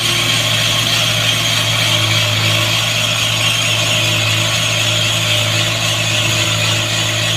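Heavy farm machinery engine running steadily at an even speed, a constant low hum with a hiss over it.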